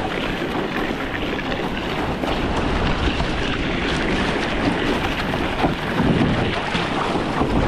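Steady wind buffeting the microphone over rushing water and surf around a canoe riding a wave.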